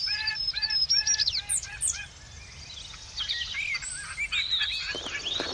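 Birds chirping and whistling: a quick series of short repeated calls for about two seconds, then softer, varied twittering with rising and falling whistles.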